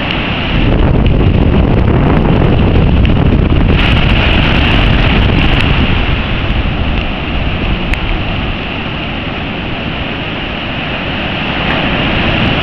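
Tropical-storm wind buffeting the microphone over the rush of surf. A stronger gust comes in about a second in and eases off a few seconds later.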